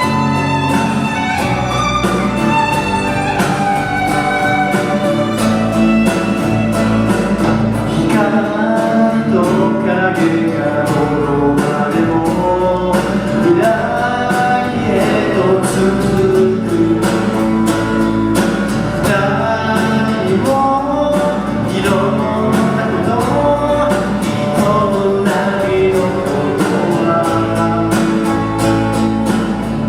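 Live rock-pop band music: a violin carries a gliding melody over guitar, bass and drums keeping a steady beat.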